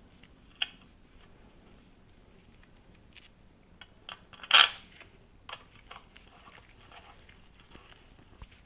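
A few sharp metallic clicks and clinks of bolts and hand tools being handled while oil pan bolts are started by hand, the loudest about halfway through.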